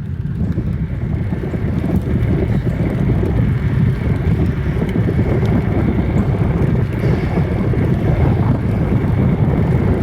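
Wind buffeting the phone's microphone while cycling: a steady, loud low rumble.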